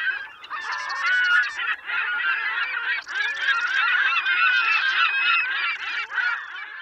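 A flock of birds honking, many short calls overlapping in a dense chorus, fading out at the end.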